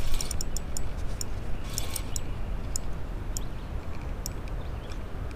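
Fishing reel ticking in short, uneven clicks while a hooked fish is played, the clicks thinning out in the second half, over a steady low rumble.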